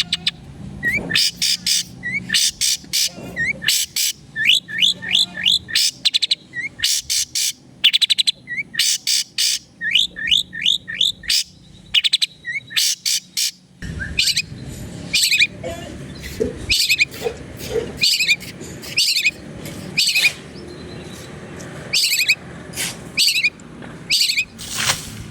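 Long-tailed shrike (cendet) singing hard and continuously: harsh rasping notes alternate with quick runs of short downslurred whistles.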